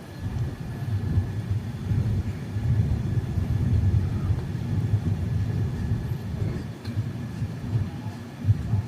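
Low, uneven rumble of a train running on the tracks, with a faint steady whine above it.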